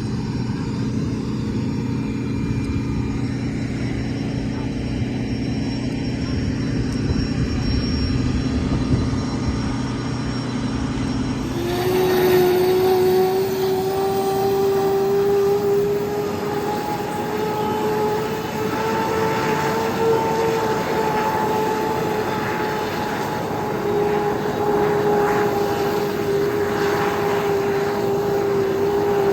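F-15E Strike Eagle jet on the ground, running with a steady low hum. About twelve seconds in, the sound switches abruptly to a loud, steady turbine whine that rises slightly in pitch and holds.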